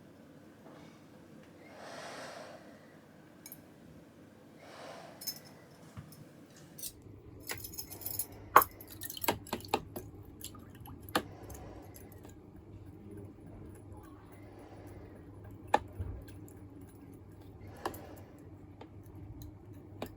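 Light clinks and knocks of metal and glass items being handled: a scatter of sharp taps, bunched together about seven to twelve seconds in, with a few single ones later, over a faint steady low hum.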